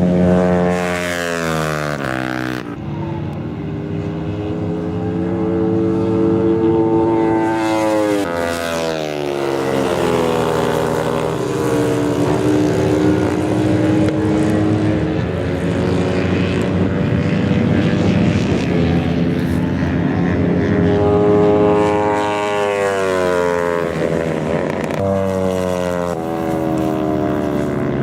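Racing motorcycle engines running at high revs, with the pitch dropping sharply three times as bikes go past or brake.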